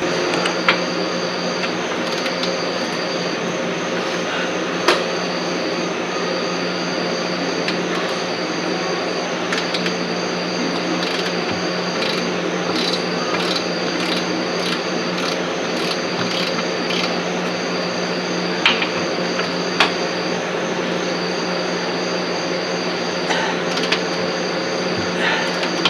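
Steady fan-like machine hum, with a high whine that cuts in and out every second or two, and a few sharp clicks of tools about 5 seconds in and again about 19 seconds in.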